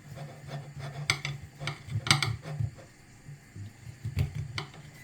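Cookware clinking and knocking a few separate times as a covered baking dish is uncovered, over a steady low hum.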